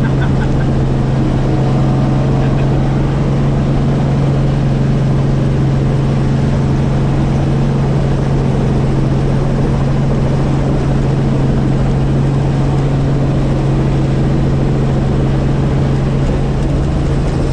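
Helicopter in flight, its rotor and engine making a steady drone with a strong low hum.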